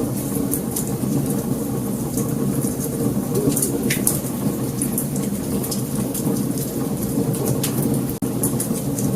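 Wood fire burning with a steady low rumble of flames and frequent small sharp crackles and pops from the burning logs, cut by a momentary dropout about eight seconds in.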